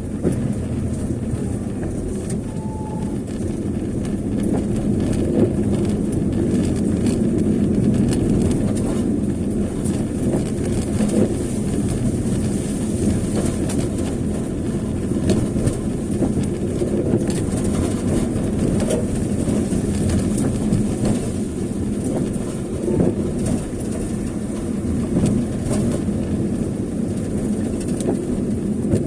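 Vehicle travelling along a rough road: a steady low rumble with frequent small knocks and rattles throughout.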